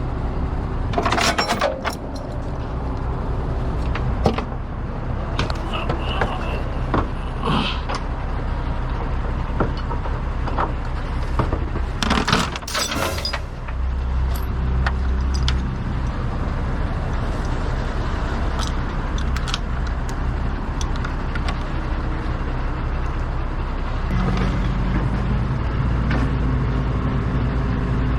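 Heavy truck diesel engine running steadily, its pitch stepping about 14 seconds in and again about 24 seconds in, with scattered clicks and a short hiss about twelve seconds in.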